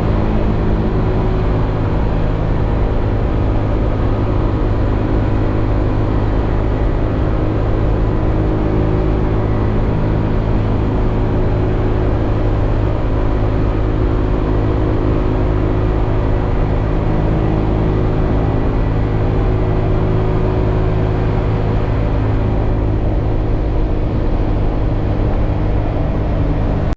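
Honda PCX scooter's single-cylinder engine running steadily at constant speed, as at idle; it cuts off abruptly at the end.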